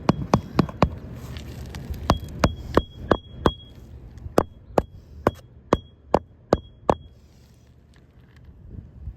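Hand hammer driving roofing nails through asphalt shingles to re-nail a lifted shingle: three quick runs of sharp blows, about three a second, several with a short metallic ring, stopping about seven seconds in.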